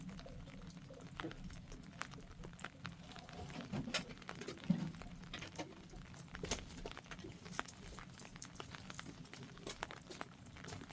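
Irregular small clicks and taps over a steady low hum, with a short low thump about halfway through.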